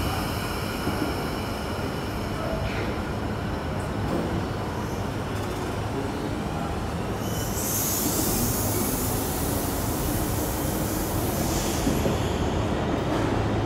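Stainless-steel double-deck electric passenger train pulling away from the platform and picking up speed, with a steady running noise and a hiss that swells and fades about halfway through.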